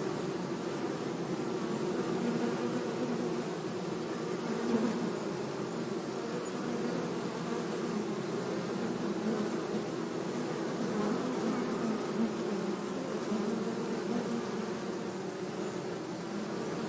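Many honey bees buzzing together as a colony, a steady, dense hum that holds without a break.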